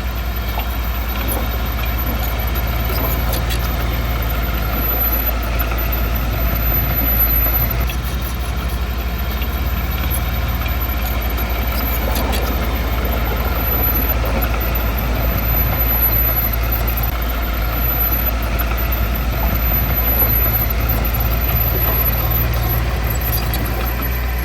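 Heavy diesel engine of earthmoving equipment running steadily at an even pitch, with no revving.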